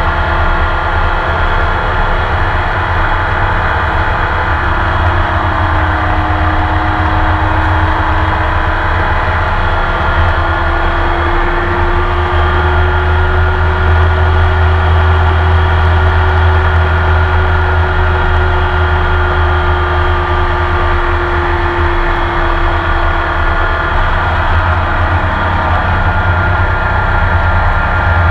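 Racing car engine heard from inside the cockpit, running hard throughout a lap. The engine note climbs gradually over several seconds, holds steady, then eases off near the end.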